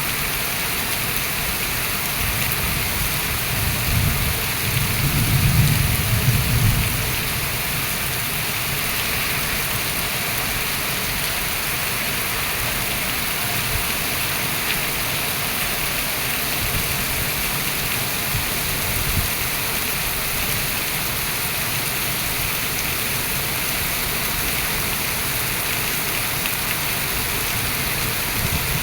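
Steady rain pouring down and splashing on surfaces. A low rumble swells and fades between about four and seven seconds in.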